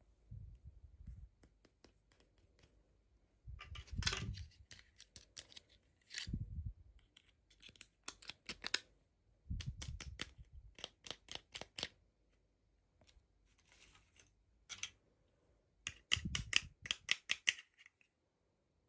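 Toy packaging being opened and handled by hand: irregular bursts of quick crackly clicks and snips, with soft thuds from time to time.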